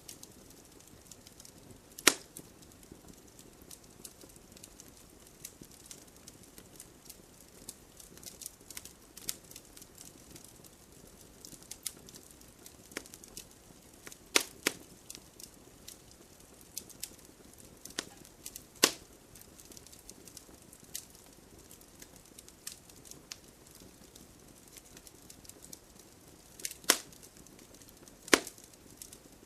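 Wood campfire crackling: a low hiss of burning with frequent small crackles and a few louder sharp pops of wood spread irregularly through.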